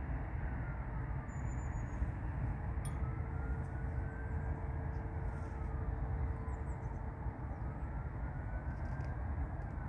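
Steady low rumble of distant jet-engine noise, with a steady hum and a faint wail that rises and falls slowly, about every three and a half seconds.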